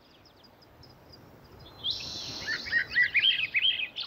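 Small songbird singing: a run of quick, high chirps and warbles that starts about two seconds in, after a quieter stretch of faint high ticks.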